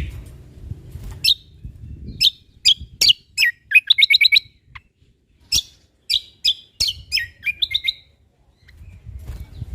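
Cucak kombo (kecial kombok) singing: rapid, sharp chirping notes that sweep down in pitch, in two bursts with a quick run of repeated notes in the middle and a short pause near the end. A low rumble sits beneath the song at the start and again near the end.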